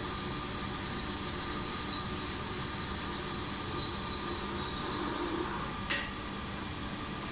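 Steady machinery hum with a few constant whining tones, and a brief sharp hiss of air about six seconds in.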